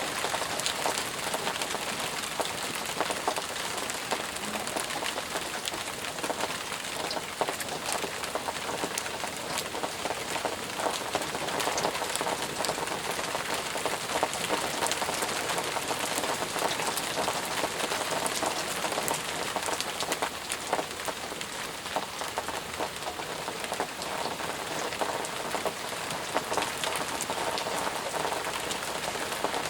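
Steady heavy rain pattering on surfaces, dense with individual drops ticking and splashing over an even hiss.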